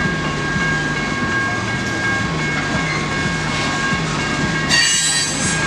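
CSX train rolling through a grade crossing, its wheels clicking rhythmically over the rails about twice a second. A brief high-pitched screech comes about five seconds in.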